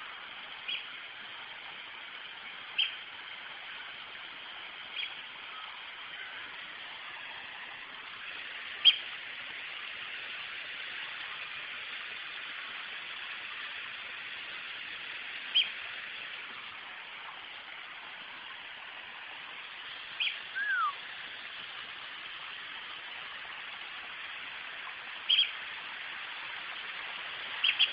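Birds calling: short, sharp chirps every few seconds, with one downward-sliding whistle about two-thirds of the way through, over a steady background hiss.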